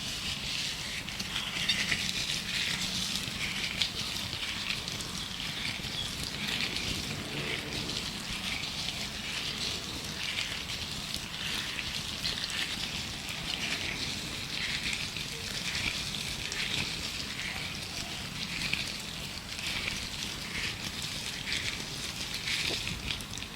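Gloves rustling and rubbing close to the microphone in a continuous, irregular crinkle, with birdsong in the background.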